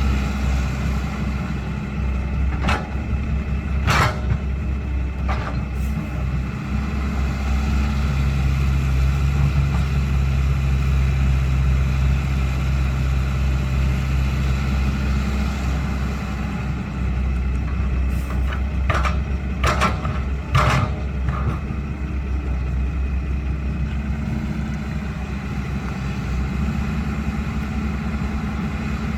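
Caterpillar 312 excavator's diesel engine running steadily under hydraulic load, with a few sharp knocks about three to five seconds in and a cluster of them around twenty seconds in, as the bucket works soil into a truck bed.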